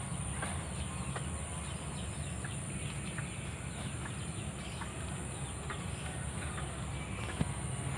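Faint scattered bird clucks and ticks over a steady high-pitched insect drone and a low rumble.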